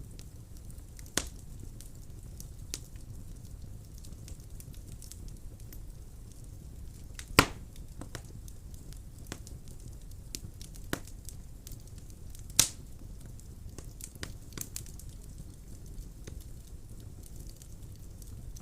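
Wood fire burning in a fireplace: a steady low rumble of flames with scattered light crackles and a few sharp pops, the loudest about seven seconds in.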